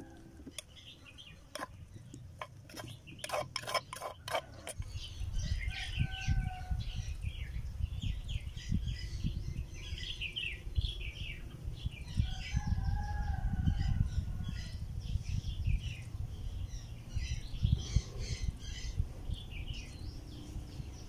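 Birds chirping in short repeated calls, with two longer drawn-out calls about six and thirteen seconds in, over a low rumble. A few sharp clicks in the first few seconds.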